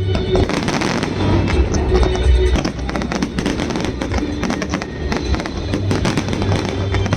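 Aerial fireworks going off in quick, irregular bangs and crackles over a low rumble, with music playing along.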